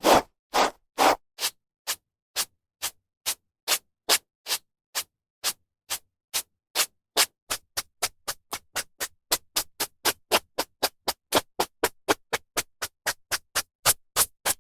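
Hairbrush strokes through hair: short dry swishes with silence between, about two a second at first, quickening to about four a second in the second half.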